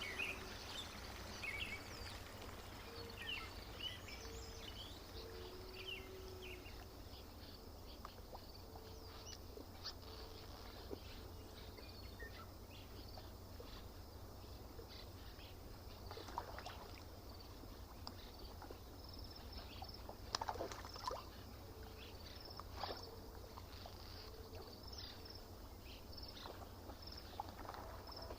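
Quiet lakeside morning ambience. Birds chirp and call, a short low hooting call repeats at intervals, and a few faint water splashes sound. A high, even chirping, from an insect or a bird, joins in the last third.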